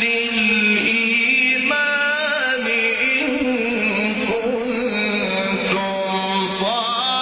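A male Quran reciter's voice in melodic tajweed recitation, holding long ornamented notes that glide up and down in pitch.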